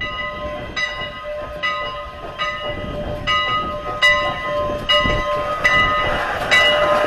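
Locomotive bell ringing steadily, struck a little more than once a second, each stroke ringing on into the next. A rushing noise builds under it near the end.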